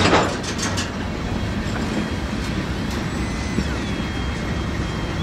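Freight cars, a tank car and then a bay window caboose, rolling past on the rails. Wheels clack sharply over rail joints in the first second, then a steady rumble continues, with faint high squeals gliding in pitch in the second half.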